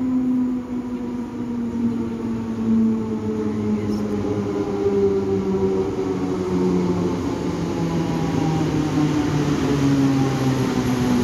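Electric locomotive hauling a passenger train into a station platform, its motors whining in several tones that slide slowly down in pitch as it slows to stop, over a rolling rumble that grows a little louder as it approaches.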